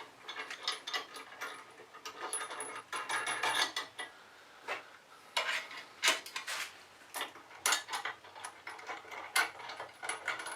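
Small metal parts of a Scheppach DP16VLS bench drill clinking and knocking as bolts and spacers are fitted by hand: irregular sharp clicks, some with a brief metallic ring.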